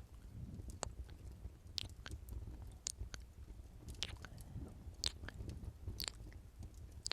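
Close-miked ASMR kisses: wet lip smacks about once a second, over a low steady rumble.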